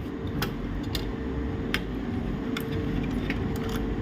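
Scattered light clicks and taps, about six in four seconds, from a screwdriver and small metal parts as the laptop's heatsink is being unscrewed, over a steady low hum.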